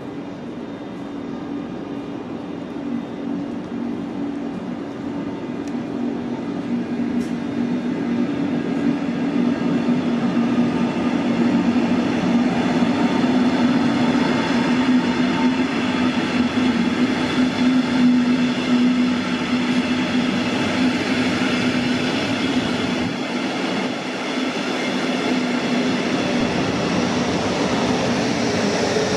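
A double-deck regional push-pull train rolling past along the platform: wheel-on-rail noise with a steady low hum, growing louder over the first dozen seconds. Its electric locomotive, pushing at the rear, comes past near the end.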